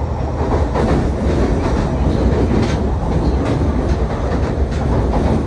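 Fukuoka City Subway 2000N-series train running, heard inside the car: a steady rumble of wheels on rail with occasional clicks.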